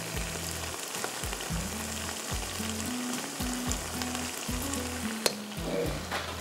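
Minced meat sizzling steadily as it fries in a large pot while spice powder goes in and is stirred, with one sharp click about five seconds in.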